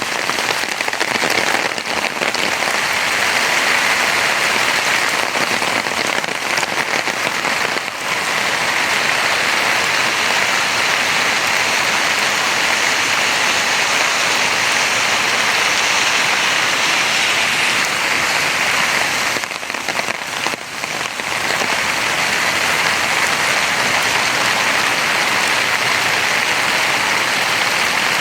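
Steady, heavy rain falling and pattering on hard surfaces, an even hiss that dips briefly about twenty seconds in.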